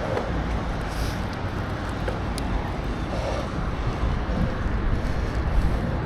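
Wind buffeting the microphone in a steady low rumble, over outdoor city background noise, with a few faint clicks.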